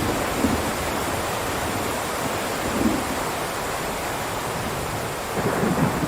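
Heavy rain downpour, a steady, dense hiss, with a few brief low rumbles about half a second in, near three seconds and near the end.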